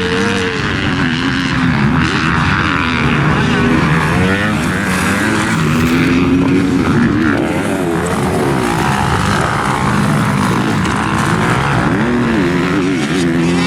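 Several motocross bikes racing, their engines revving up and down as they shift and run the jumps and turns, with more than one bike heard at once.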